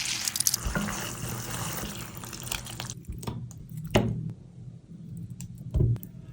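Wet food-preparation sounds for chilli chicken: a hiss that stops about three seconds in, then soft wet squishes, light clicks and two dull thuds.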